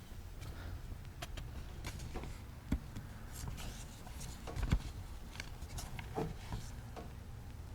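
Low room hum from a lo-fi recording, with scattered small clicks and knocks and two louder thumps, one about three seconds in and one near five seconds.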